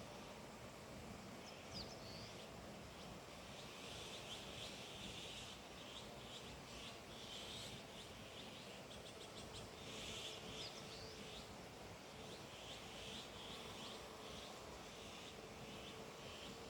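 Faint wild birds chirping: many short, high calls and a few quick down-slurred notes over a steady background hiss, busiest from about four seconds in.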